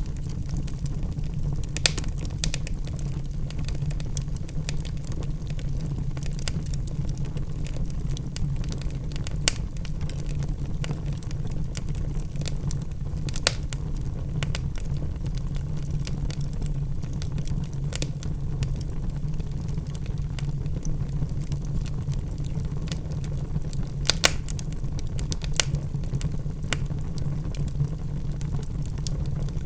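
Wood logs burning in a fireplace: a steady low rumble of the fire with scattered sharp crackles and pops, a few of them louder.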